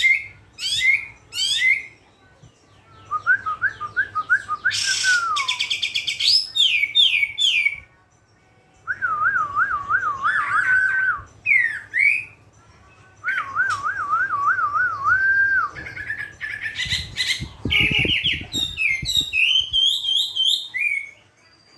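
Pet bird chirping and whistling in a varied run of sharp chirps and trills, with two wavering, warbled whistle phrases in the middle and a busy flurry of chirps near the end.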